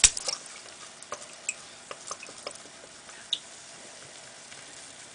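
Baking soda and vinegar fizzing in a cup: a faint hiss with scattered small crackling pops of bursting bubbles, thinning out as it goes. A sharp click sounds right at the start.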